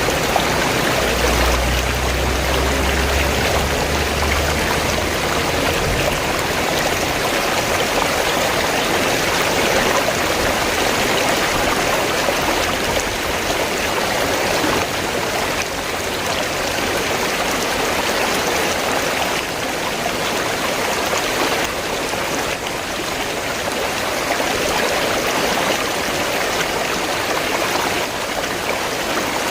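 River water flowing and rushing steadily, with a brief low rumble underneath in the first few seconds.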